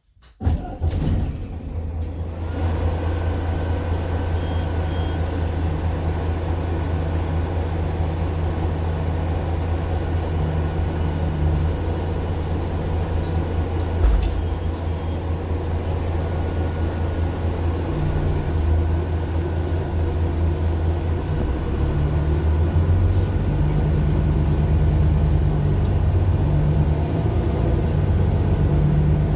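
Mercedes-Benz Citaro LE city bus, its Daimler OM 457 hLA six-cylinder diesel running with a steady low drone that comes in abruptly at the start and grows somewhat louder in the second half. There is a single brief knock about halfway through. Recorded on a mobile phone.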